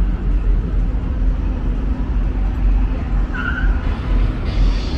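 Car engine running with a deep, steady low rumble.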